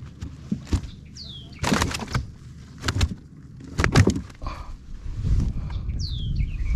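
A redfish being landed beside a kayak: a series of sharp splashes and knocks as the fish thrashes at the hull, about four bursts in the first four seconds. Twice, a short high whistle falls in pitch, like a bird call, and a low rumble builds up near the end.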